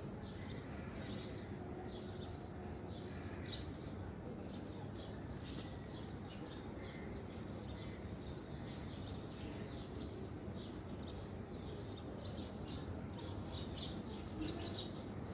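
Birds chirping: many short, high chirps scattered throughout, over a steady low background noise.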